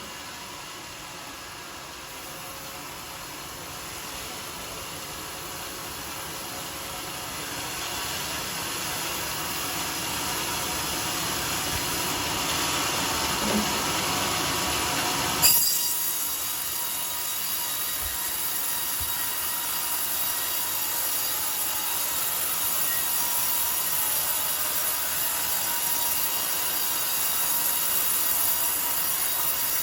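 Circular sawmill blade cutting through a coconut-palm log: a steady high, hissing whine that grows louder over the first half. One sharp knock about halfway through.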